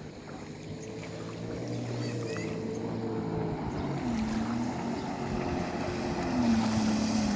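Jet ski engine running, its pitch wavering up and down with the throttle and growing steadily louder.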